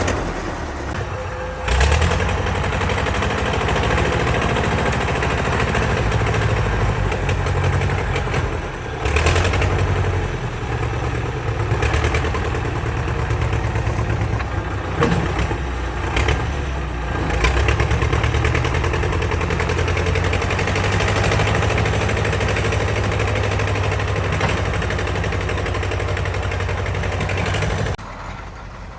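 A vehicle engine running steadily while driving, with short surges and rattling over the engine note; it cuts off sharply near the end.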